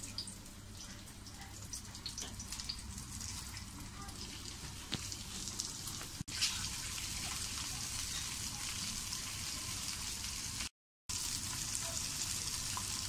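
Oil sizzling and crackling on a cast-iron dosa tawa as masala-coated pieces of boiled taro root shallow-fry. It grows louder about six seconds in, when the pan is full of frying pieces.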